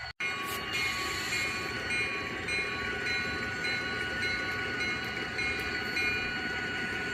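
Model diesel locomotive's sound decoder playing a steady engine rumble, with a bell ringing about twice a second over it. The sound cuts out for an instant just after the start.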